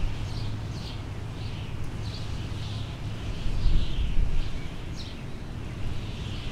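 Small birds chirping over and over in short falling calls, about two a second, over a steady low rumble like wind.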